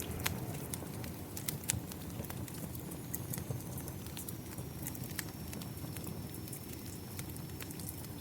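Wood fire crackling, with frequent sharp irregular pops, over a steady bed of rain.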